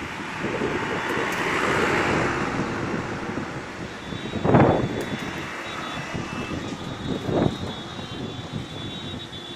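Strong wind rushing past, swelling in the first few seconds, with two short heavy gusts buffeting the microphone, about four and a half and seven and a half seconds in.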